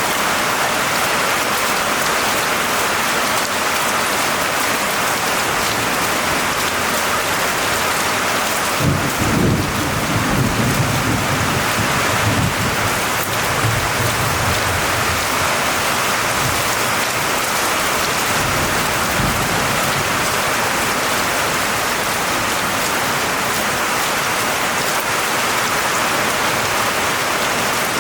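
Steady heavy rain hissing, with a low roll of thunder rumbling for about five seconds starting around nine seconds in, and a fainter rumble later.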